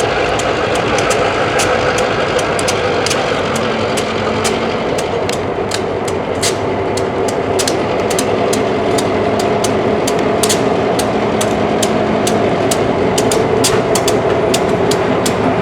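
An engine running steadily with a droning hum that shifts in pitch about halfway through, along with many sharp, irregular clicks.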